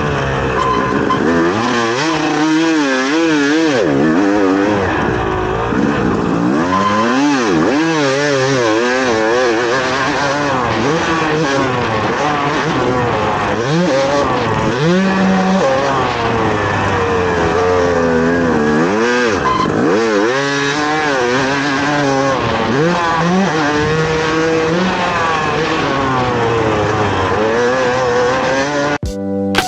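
Two-stroke dirt bike engine, a Yamaha YZ250, revving up and down over and over, its pitch climbing and dropping as the throttle is worked through shifts and jumps. Music cuts in right at the end.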